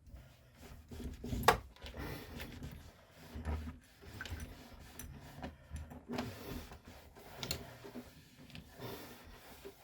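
Hands cleaning and handling the small parts of a coffee machine pump: irregular rubbing and scraping with scattered clicks and knocks, the sharpest click about one and a half seconds in.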